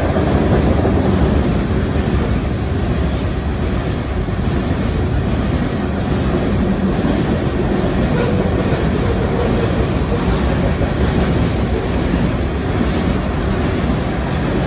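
Train rolling past, a steady heavy rumble with wheels clacking over the rail joints.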